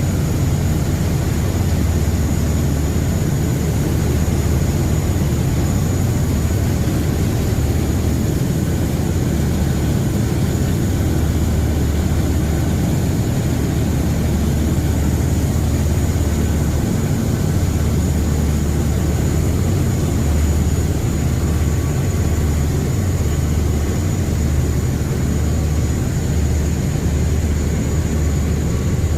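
Steady low drone of a Thames passenger boat's engines, heard on board, with a constant rushing noise over it.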